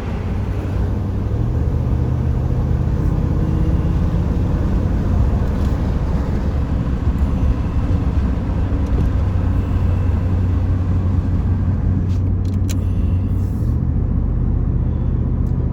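Car engine and road noise heard from inside a moving vehicle, a steady low hum whose note shifts about a second and a half in and again near the end.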